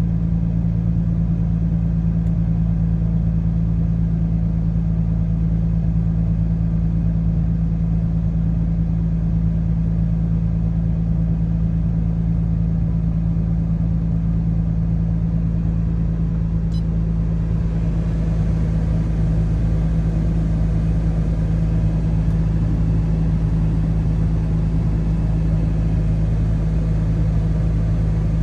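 1992 Nissan 300ZX Twin Turbo's 3.0-litre twin-turbo V6 idling steadily after a cold start, with no revving in this stretch.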